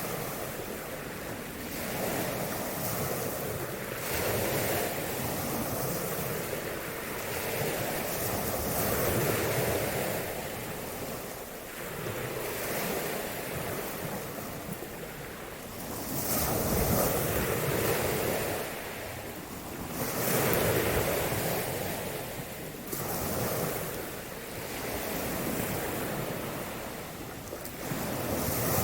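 Waves washing in, rising and falling in slow swells every few seconds, with wind buffeting the microphone.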